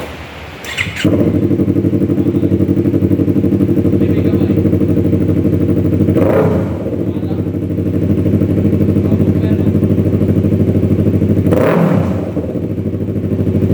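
Yamaha MT-03's parallel-twin engine running through a Toce Razor Tip full-system exhaust: it starts about a second in and settles into a steady idle, with two short throttle blips, one around the middle and one near the end.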